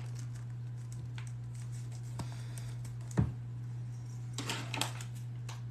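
Electric fan humming steadily, with scattered light clicks and taps of small tools being handled on the workbench: a sharper tap about three seconds in and a quick run of clicks near the end.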